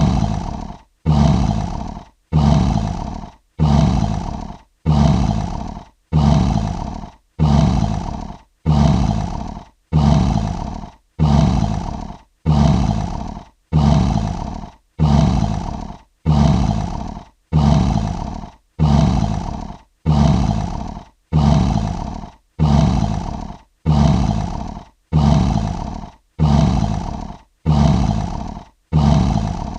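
Lion roar sound effect: the same short roar repeated about once a second, each one starting loud and fading out, with a brief silence between.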